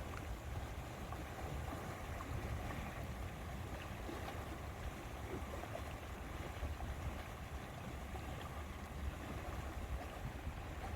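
Steady lake-side ambience: a constant wash of water with a low, uneven rumble of wind.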